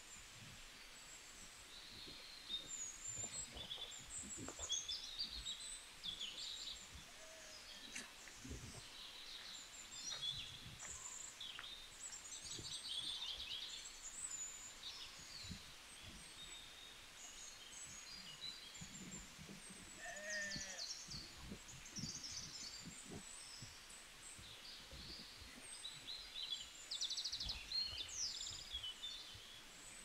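Small birds chirping and singing in many overlapping short calls and trills. About two-thirds of the way through there is one lower animal call.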